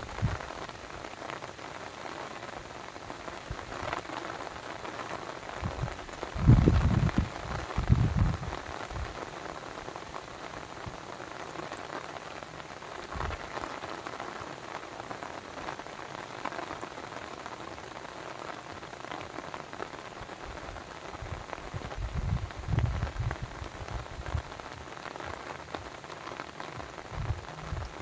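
Steady pattering and splashing of water, with a few short low rumbles: around 7 seconds in, again a second later, and a cluster near 23 seconds.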